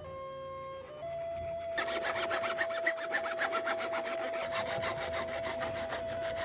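Rapid abrasive scraping of the rusty katana blade, about ten strokes a second, starting about two seconds in. A steady held tone runs underneath.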